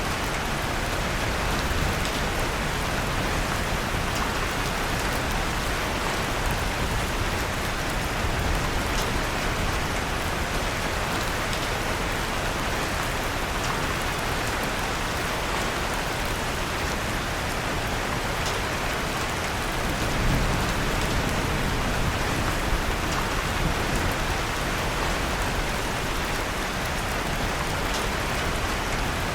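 Steady rain falling, with occasional faint crackles of a wood fire in a fireplace. A low rumble swells briefly about two-thirds of the way in.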